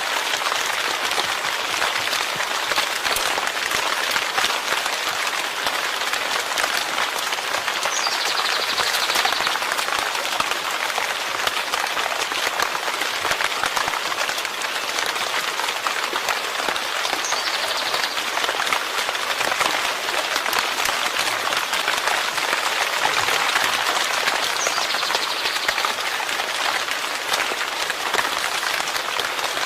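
Steady rain: a dense, even hiss of countless small drops striking surfaces.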